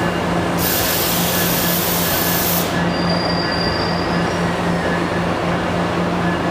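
A train running with a steady low hum and rumble. About half a second in, a loud burst of high hissing lasts about two seconds, and a faint brief high squeal follows.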